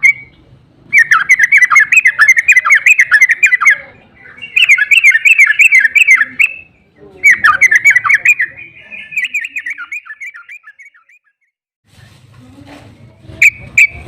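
Yellow-vented bulbul (trucuk) singing three long runs of fast, jerky chattering notes, the last run fading out. After a pause come two short sharp notes near the end.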